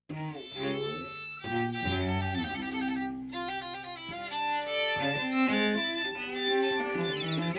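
Music: a piece led by bowed strings, violin and cello, playing sustained notes that start abruptly at the opening of a new track.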